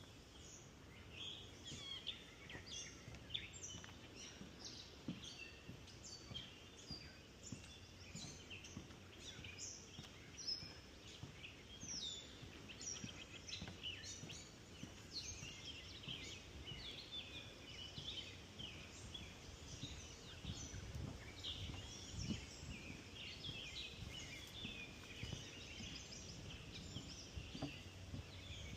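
Many birds singing at once in a swamp woodland: a dense, continuous chorus of short high chirps and trills, over a faint low rumble.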